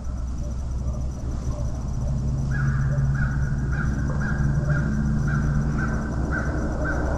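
A bird calling in a quick series of about nine short, evenly spaced calls, roughly two a second, starting about two and a half seconds in. A low steady hum sounds underneath for a few seconds.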